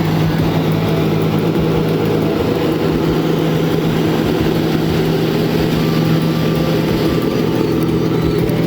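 Heavy truck engine running at a steady, unchanging pitch.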